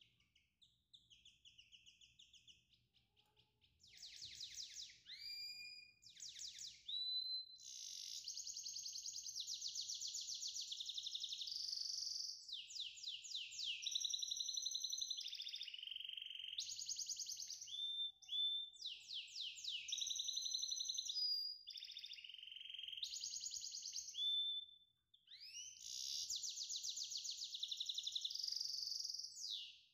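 A songbird singing long runs of rapid trills and whistled notes, some sweeping up or down in pitch, with short pauses between phrases.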